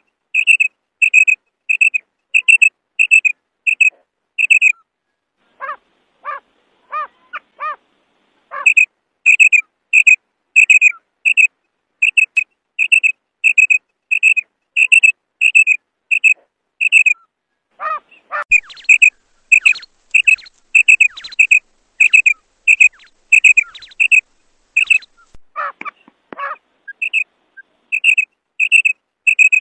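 Female quail calling: a steady run of short, clipped, high notes, about one and a half to two a second, with brief pauses. A few lower-pitched calls of several notes come in among them, around 6 seconds, 18 seconds and 26 seconds in.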